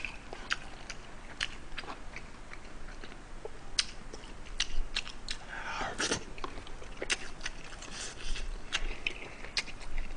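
Close-up chewing and mouth sounds of someone eating from a rice bowl with a spoon, with scattered short sharp clicks and taps of the utensils.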